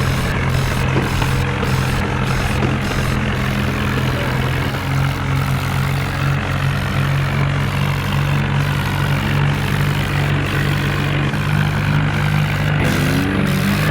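Tractor engine running steadily at high load, its pitch rising near the end.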